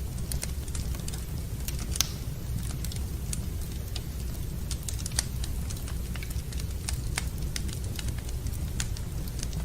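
Wood fire in a fireplace crackling: irregular sharp pops and ticks over a steady low rumble, with two louder pops about two and five seconds in.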